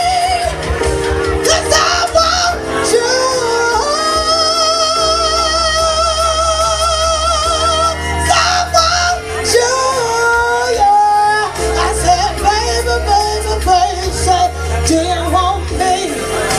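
Live band music with a female vocalist singing, holding one long note with vibrato a few seconds in, then singing a quick rising run of notes.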